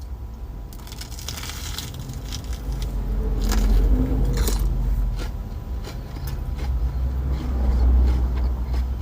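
Close-up biting and chewing of a crispy, fried Korean corn dog, with crackly crunches, over a steady low rumble that swells twice.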